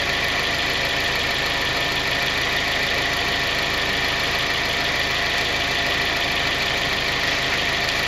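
Four-cylinder car engine idling steadily.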